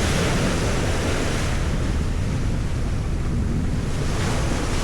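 Steady wind rushing over the microphone together with the wash of sea water from a boat under way.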